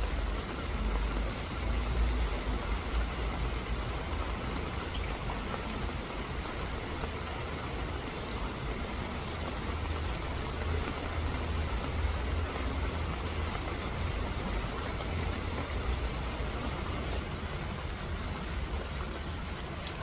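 Steady rain falling, an even hiss of drops over a low rumble.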